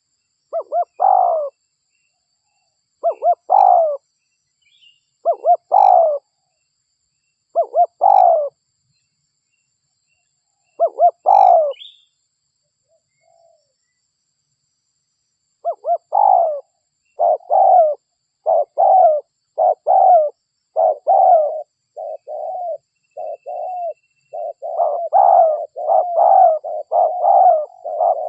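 Spotted dove (derkuku) cooing: five separate coo phrases a couple of seconds apart, each a few quick notes ending in a longer one. After a short pause comes a faster run of coos, about one a second, growing louder and more crowded near the end.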